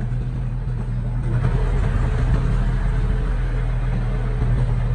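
Diesel engine of heavy earthmoving machinery running steadily under load, getting a little louder about a second in.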